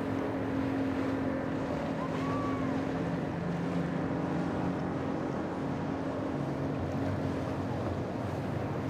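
Motorboat engines running steadily, a low hum with several engine notes, over a wash of water and wind noise.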